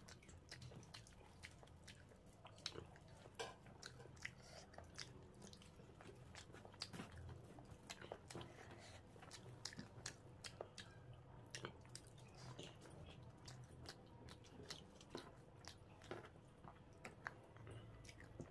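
Faint open-mouthed chewing of rice and curry, with many irregular wet clicks and smacks from the lips and from fingers squishing the rice.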